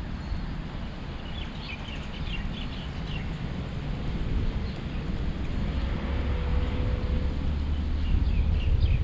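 Outdoor ambience: a steady low rumble with small birds chirping, a cluster of chirps about two seconds in and more near the end.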